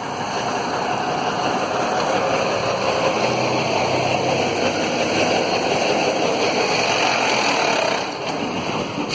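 Motor vehicle engine running nearby, swelling over the first couple of seconds, holding steady, then easing off near the end.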